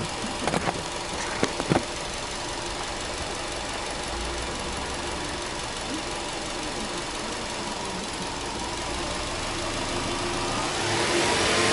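Subaru Legacy 2.0GT's turbocharged flat-four (boxer) engine idling steadily, heard at the open engine bay, with a few sharp clicks in the first two seconds. A hissing noise builds near the end.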